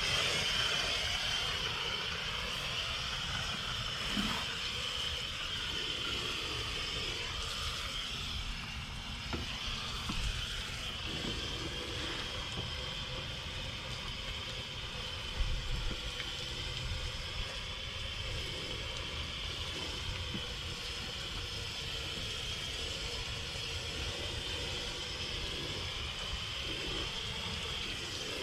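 Garden hose spraying a steady stream of water over a boat's hull, rinsing off the desalting soap solution. It starts suddenly and stays steady, with a couple of small knocks.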